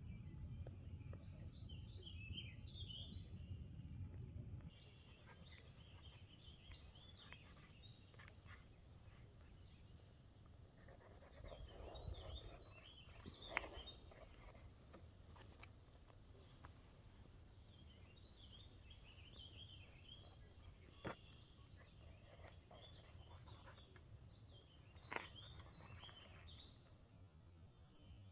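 Faint outdoor ambience with small birds chirping and twittering now and then, and a few soft clicks.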